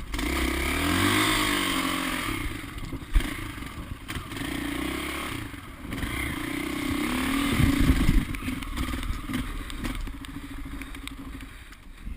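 Off-road vehicle engine revving and running under load, its pitch rising about a second in and again around seven to eight seconds, with some clatter.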